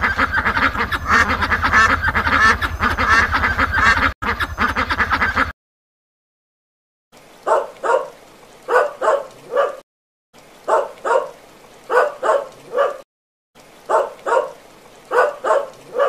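A group of ducklings quacking and peeping rapidly over one another, with a low hum beneath, for about the first five seconds. Then, after a short silence, puppies yapping in three quick runs of four or five yaps each, with pauses between.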